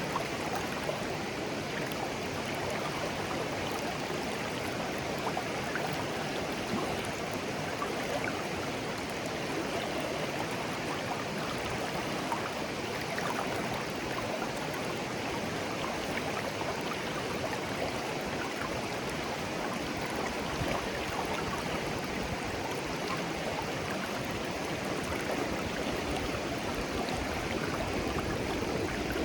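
Shallow clear stream flowing steadily, a continuous babbling and splashing of water over stones.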